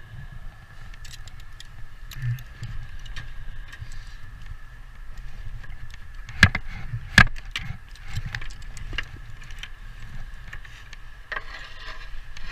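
Scattered clicks and knocks of hand work on a slate roof, with two loud sharp knocks about six and a half and seven seconds in, over a low rumble and a faint steady high tone.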